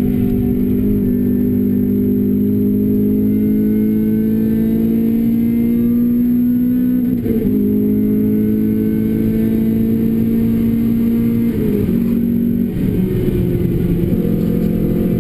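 Renault Clio RS engine and Bastuck exhaust under load, the pitch slowly climbing as it pulls. There is a brief shift about seven seconds in, then the revs drop near the end.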